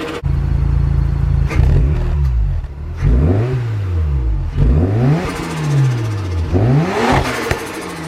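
Turbocharged Mazda RX-8 Type S rotary engine, running through an aftermarket R'magic catalytic converter and muffler, holding a steady note and then revved about three times, its pitch rising and falling with each blip of the throttle.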